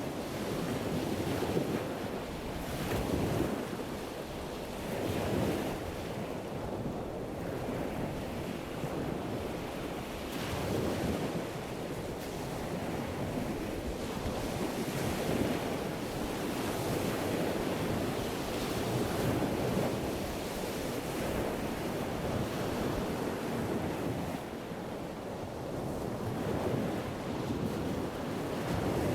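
Wind and water noise outdoors, with wind buffeting the microphone: a steady rushing that swells and fades every second or two.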